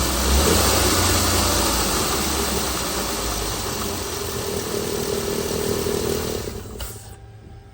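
Chrysler Pentastar 3.6 L V6 engine running, slowly easing in level, then cut off about seven seconds in, with faint music after.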